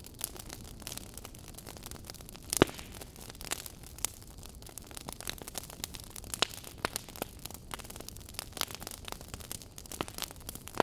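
Fire burning in a fireplace, crackling and popping at irregular intervals over a steady low hiss, with one loud pop about two and a half seconds in.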